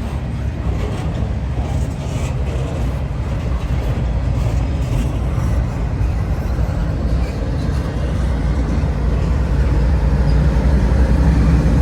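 Low, steady engine rumble of a heavy vehicle, growing louder over the last few seconds.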